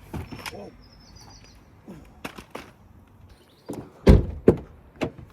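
A series of knocks and thumps as car doors are opened and shut, the loudest and deepest thump about four seconds in, with a brief high chirp near the start.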